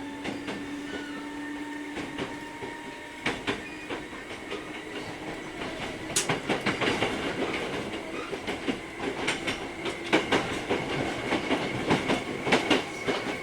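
Hankyu 3300 series train running between stations, heard from inside the car: a steady humming tone ends about two seconds in, then the wheels clack over rail joints, more and more often from about halfway through.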